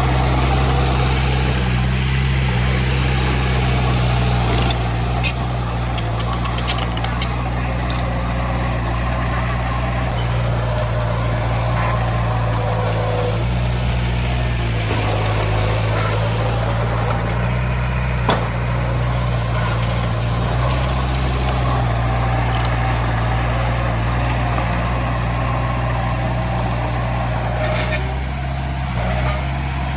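Heavy diesel earthmoving machinery running steadily with a low engine drone. Several metallic clanks come a few seconds in, and there is one sharp knock about two-thirds of the way through.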